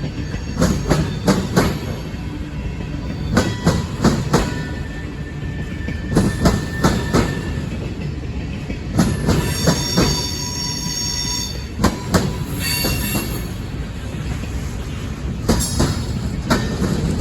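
Train cars rolling past, their wheels clacking over the rail joints in groups every few seconds. A thin wheel squeal comes in a few seconds in, and a higher, stronger squeal near the middle.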